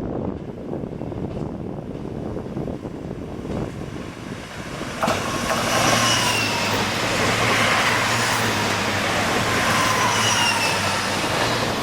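Railway train running through a station, its rumble swelling into a loud rush of wheels on rails about five seconds in, with a steady low hum and high squealing glides that fall in pitch.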